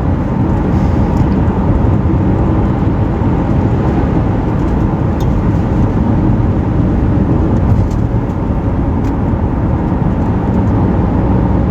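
Steady road and engine noise heard from inside a moving car's cabin, with a few faint clicks.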